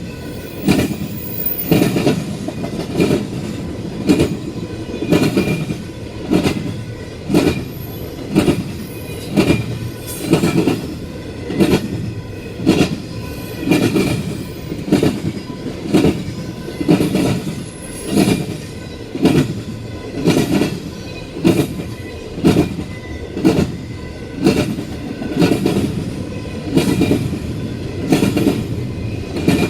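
Cars of a BNSF intermodal freight train rolling past, their wheels clacking over rail joints in a steady rhythm of about one clack-pair a second, over a continuous rumble.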